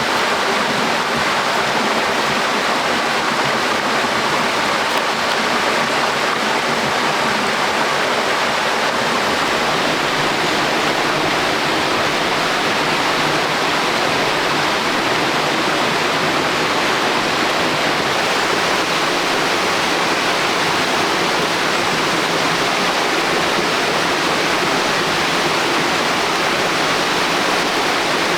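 Flowing water rushing steadily, an even, unbroken hiss with no breaks.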